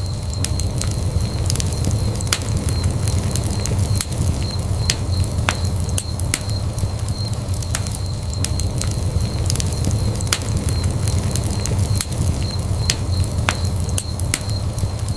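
Wood fire burning in a fireplace, a steady low rumble of flames with frequent sharp, irregular crackles and pops.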